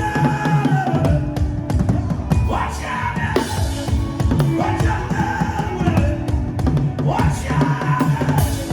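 Drum-led worship music: fast, dense drumming over a steady low bass line, with a gliding melodic line rising above it every couple of seconds.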